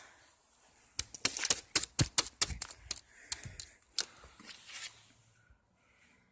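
Thin ice glaze cracking and breaking as it is knocked off a vehicle: a quick run of sharp cracks and crunches lasting about four seconds, starting about a second in.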